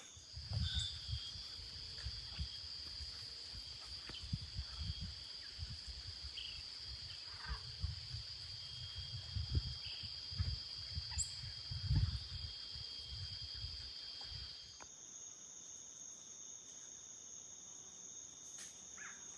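Insects calling in one steady high-pitched drone that shifts to a slightly higher pitch about fifteen seconds in. Irregular low rumbling runs underneath until the pitch change.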